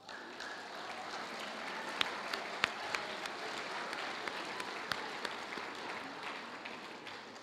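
Audience applauding, starting suddenly and slowly dying away toward the end, with a few sharp single claps standing out.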